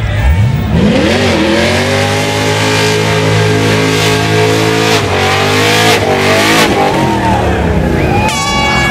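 Car engine revved hard and held at high revs during a burnout, with a hiss of spinning tires over it. The revs drop and pick up again twice, and a short high-pitched squeal comes near the end.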